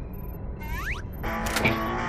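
Cartoon soundtrack: a low rumble with a quick rising whoosh, then music with guitar comes in sharply a little past a second in.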